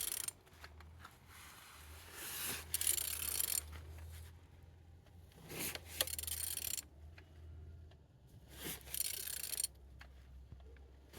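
A14XER petrol engine being turned over by hand at the crankshaft: three rasping, scraping bursts of about a second each, with a few clicks from the tool, as the engine is rotated to show that it turns freely.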